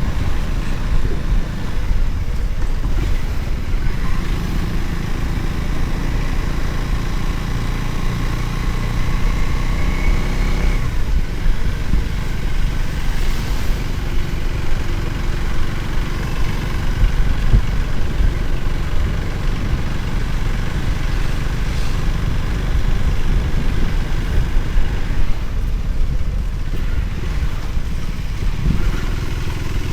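Motorcycle running while riding, with a heavy low rumble of wind and road noise. About ten seconds in the engine pitch climbs, then drops sharply.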